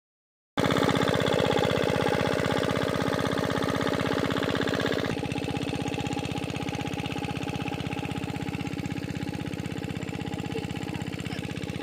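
Diesel engine of a farm water pump running steadily with an even, rapid chugging beat; about five seconds in it becomes abruptly quieter and duller.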